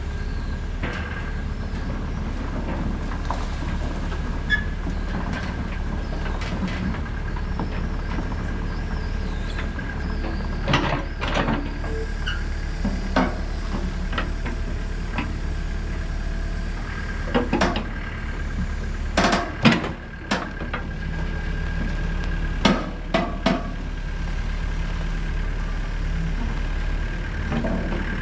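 Excavator's diesel engine running steadily under a thin steady whine, with several clusters of sharp knocks and clanks as the bucket works through rocky ground.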